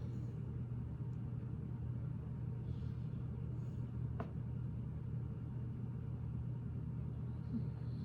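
Steady low background rumble or hum, with one faint click about four seconds in.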